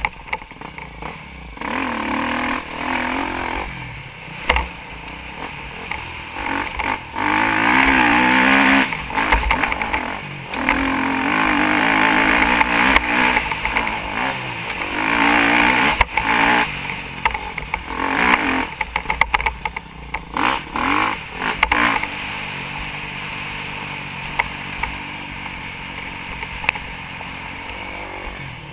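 Motocross bike engine revving up and down over and over as it is ridden hard, loudest through the middle and steadier and quieter near the end, with constant wind and rattle noise on an onboard action camera.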